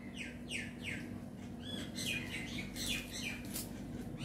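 Small birds chirping: a series of short chirps, each falling quickly in pitch, coming in quick runs, over a steady low hum.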